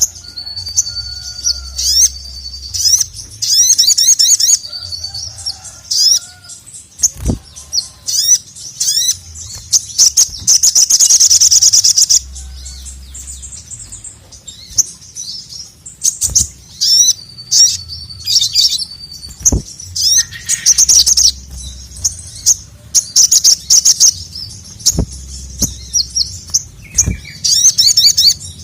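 A male sogok ontong (sogon) sunbird singing energetically: rapid high chirps and twittering trills, a held thin whistle near the start, and a dense buzzing trill about ten seconds in. A few sharp clicks and a low rumble sit underneath.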